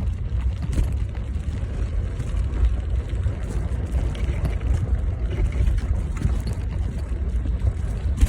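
Wind buffeting the microphone while riding a bicycle: a steady, fluttering low rumble.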